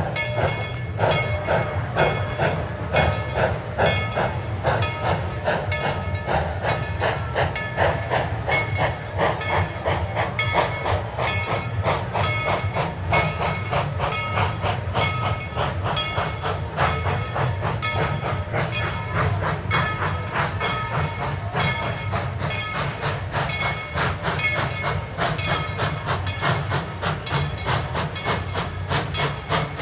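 Narrow-gauge steam train running, its cars clattering steadily over the rail joints, with steam hissing.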